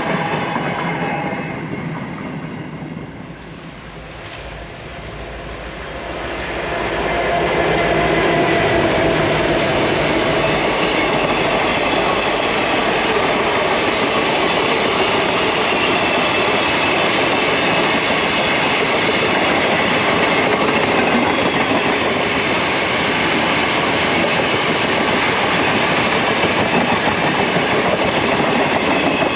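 Cattle wagons of a narrow-gauge freight train rolling past close by: the steady noise of steel wheels running on the rails. It dies down over the first few seconds, then builds back up and stays loud from about seven seconds in.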